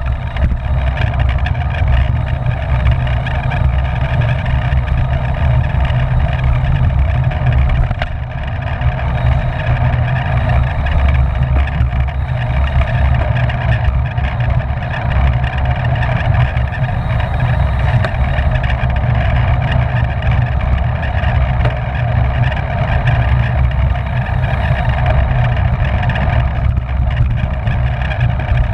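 Steady wind rush buffeting a bicycle-mounted camera's microphone while riding at race speed, heavy and rumbling in the low end.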